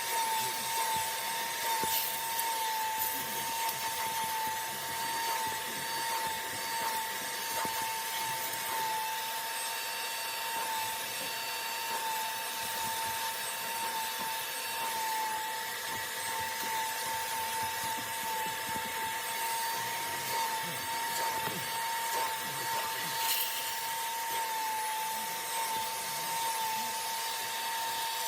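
Seat extractor's vacuum motor running steadily, with one constant high whine over a hiss of suction.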